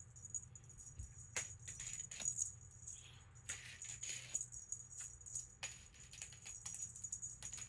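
Irregular small-bell jingling and light rattling clicks, coming in scattered bursts.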